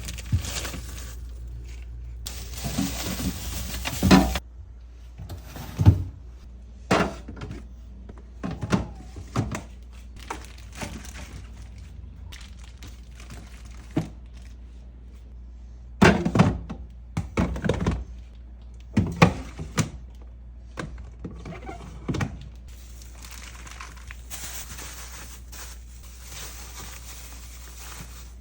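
Food containers and packages being set down on fridge shelves and knocked against one another: irregular thunks and clatters, some in quick clusters.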